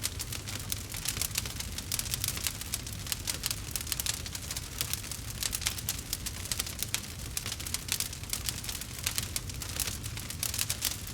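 Campfire burning: dense, irregular crackling and snapping of burning wood over a low, steady rumble of flame.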